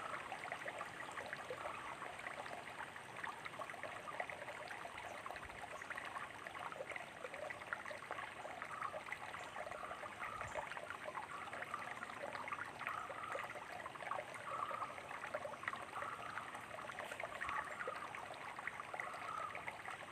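Small stream of water trickling and splashing steadily, a continuous spatter of small drips and gurgles.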